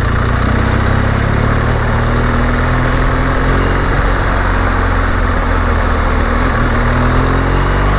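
BMW GS Adventure motorcycle engine running steadily at low revs over a steady hiss. Its pitch dips slightly and recovers near the end.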